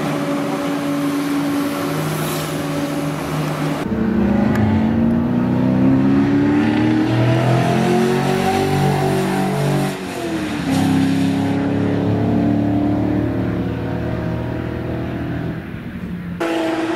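BMW E46's 6.2-litre LS3 V8 with a straight-piped side-exit exhaust, first idling steadily. After a cut it accelerates, its pitch rising for several seconds and then falling away as the car passes. It then runs on at a steadier, slowly falling pitch, and near the end cuts back to a steady idle.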